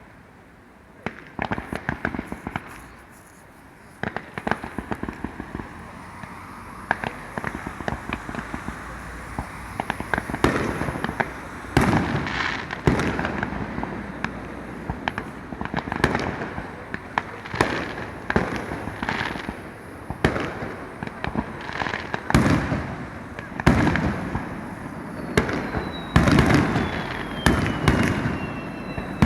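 Aerial fireworks bursting again and again with crackling between the bangs, the bursts coming thicker and louder from about a third of the way in. A falling whistle sounds near the end.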